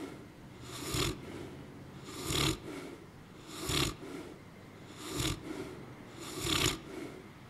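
A dog snoring in a steady rhythm, five raspy snores about a second and a half apart.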